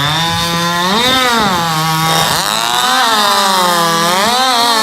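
A two-stroke racing chainsaw in the 3-cube class runs flat out through a log. Its engine pitch sags under the load of the cut and climbs briefly about a second in and again near the end, as the chain clears the wood between cuts.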